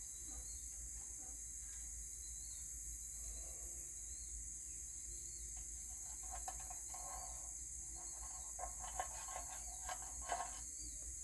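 Quiet outdoor background: a steady high-pitched insect chorus with a low hum underneath, and a few faint clicks and taps in the second half.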